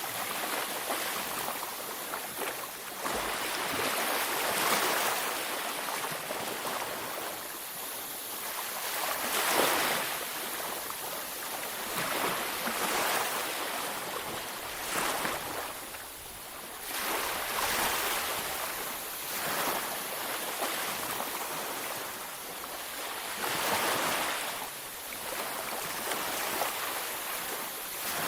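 Ocean surf breaking on a beach, a steady wash of noise that swells with each wave every few seconds.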